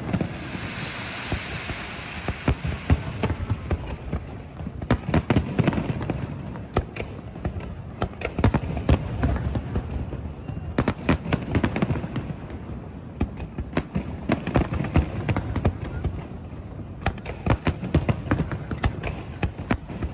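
Aerial fireworks bursting: many sharp bangs in rapid clusters over a steady rumble, with a crackling shower of sparks in the first few seconds.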